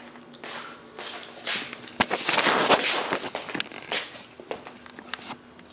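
Rummaging: scattered clicks and rustling from objects being handled, with a louder stretch of rustling and scraping about two seconds in.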